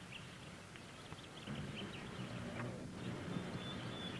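Faint outdoor ambience with scattered short, high bird chirps and a low steady hum underneath that comes up about a second and a half in.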